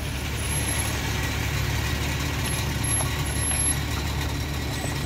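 Truck engine running steadily as the truck drives past, with road noise.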